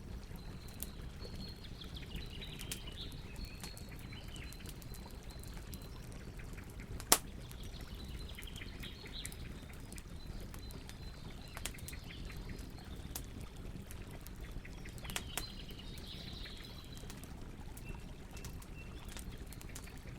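Campfire crackling with scattered pops, one sharp loud pop about seven seconds in, over a low steady rumble. Birds chirp in the background in several short bouts.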